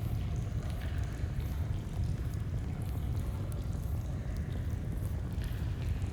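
Campfire crackling, with scattered sharp pops and snaps over the steady low rush of a flowing stream.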